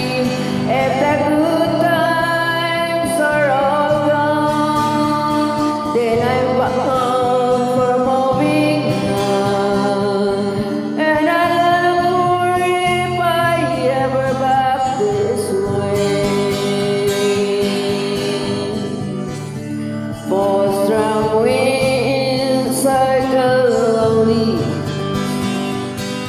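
A singer holding long, sliding notes over a country-style karaoke backing track with acoustic guitar, the voice breaking off briefly about three-quarters of the way through.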